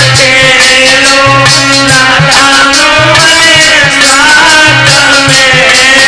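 Instrumental passage of a North Indian folk malhar: a melodic lead over a steady drum beat with busy rattling percussion.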